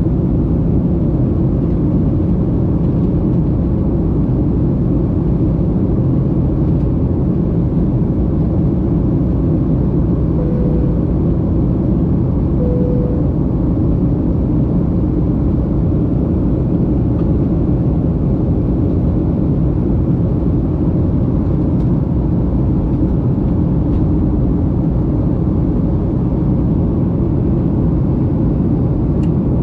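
Steady low rumble of engine and air noise inside an airliner cabin, with two short faint tones about ten and thirteen seconds in.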